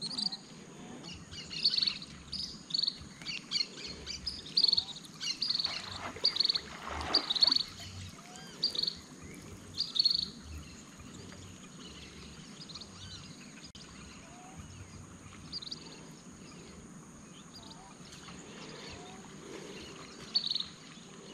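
Birds calling outdoors: short, high chirps repeated about once a second for the first ten seconds, then only now and then. A steady high whine runs underneath throughout.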